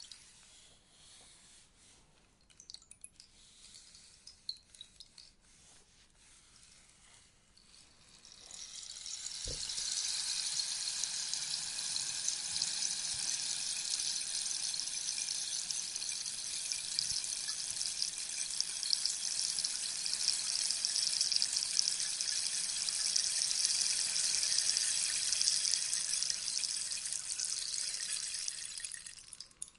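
Rainstick being tipped: for the first several seconds only a few scattered beads tick down, then at about 8 seconds in a fresh cascade of beads starts pattering through the tube. The patter is steady and rain-like, and it dies away just before the end.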